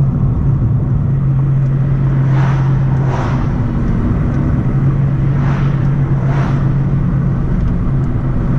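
Steady engine and road-noise drone of a car being driven, heard from inside the cabin, with four brief whooshes of passing traffic.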